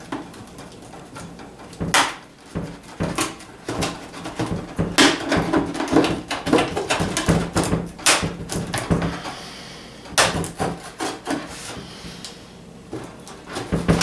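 Cardboard packaging being opened and a bird feeder handled: irregular rustling, scraping and sharp knocks, busiest in the middle.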